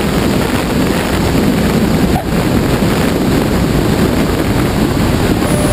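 Steady rush of wind over the wing-mounted camera's microphone on a Cessna 172, with the engine throttled back to idle for landing. There is a brief dip about two seconds in.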